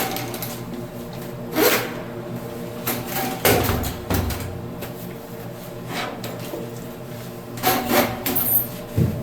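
Tools and plumbing parts being handled under a sink: scattered knocks, clinks and rubbing, with a cluster of sharper clatters near the end, over a steady low hum.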